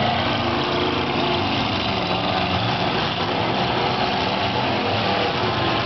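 Several demolition derby cars' engines running together, a steady mix of engine notes at different pitches.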